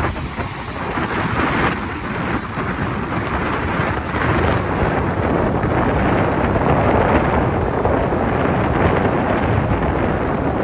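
Heavy typhoon-swell surf breaking and closing out along the beach: a loud, continuous wash of crashing waves that builds a little midway, with wind buffeting the microphone.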